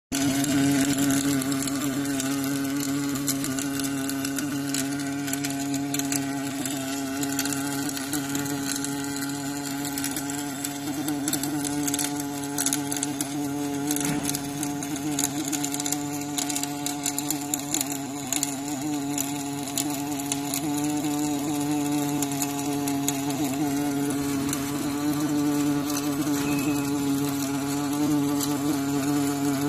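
Robotic arc welding: a steady buzzing hum from the welding arc, with scattered crackles all through.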